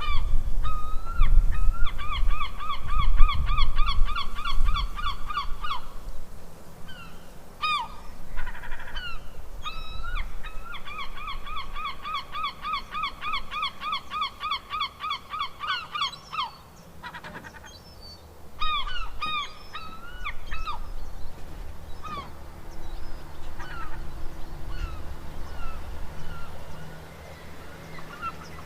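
Domestic geese honking, in long rapid runs of calls and then scattered single honks. A low rumble sits under the first few seconds.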